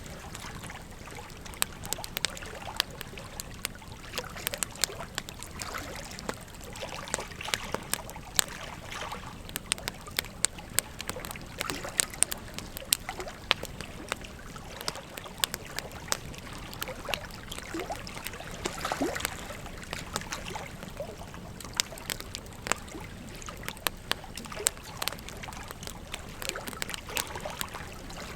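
Wood fire crackling and popping, with frequent sharp snaps and a few louder pops, over the steady rush of a flowing river.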